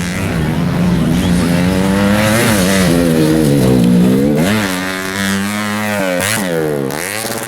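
Underbone motorcycles racing on a dirt track, their engines revving up and dropping repeatedly as the riders work the throttle, with sharp drops and climbs in pitch near the middle and near the end.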